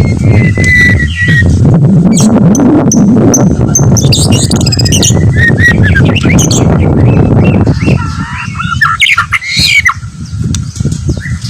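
White-rumped shama (murai batu) singing, with short varied whistles and harsh squawky notes, over a loud low rumble that drops away about eight seconds in.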